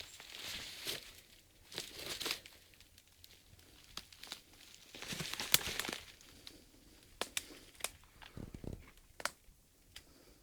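Footsteps crunching and rustling through dry leaf litter and twigs on a forest floor, in irregular bursts with a few sharp snaps.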